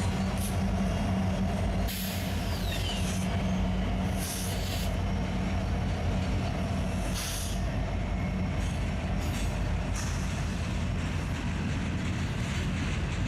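Freight train rolling by: a steady low rumble of wheels and cars on the rail, broken by several short high hissing or squealing bursts.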